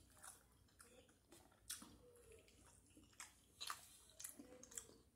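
Faint, close chewing with scattered small mouth clicks: someone eating a breakfast of grits, scrambled eggs and a sausage patty.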